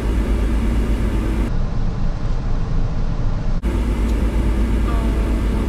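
Steady low rumble of a car's engine idling, heard inside the parked car's cabin.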